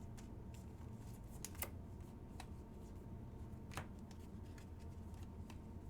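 Trading cards being handled and flicked through, faint soft clicks and slides of card on card, with two sharper clicks about one and a half seconds and nearly four seconds in.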